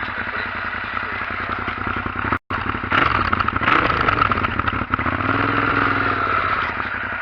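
Suzuki SV650S's V-twin idling through a Remus racing exhaust, with the throttle blipped a few times after about three seconds. The sound drops out for an instant about two and a half seconds in.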